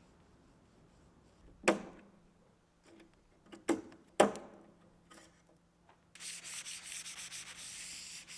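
Three sharp knocks, then hand sanding starts about six seconds in: quick, even back-and-forth strokes of abrasive rubbing on a panel.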